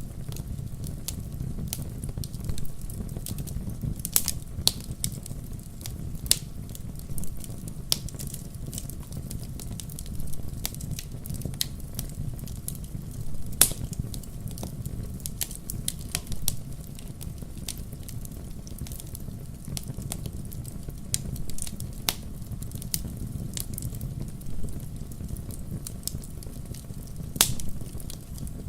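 Wood fire burning in a fireplace: a steady low rumble of flames with irregular crackles and pops from the burning logs, a few of them sharper and louder.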